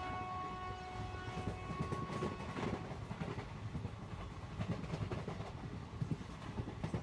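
Train rumbling along with rail clatter. A chord of held steady tones, like a horn, fades out about two and a half seconds in.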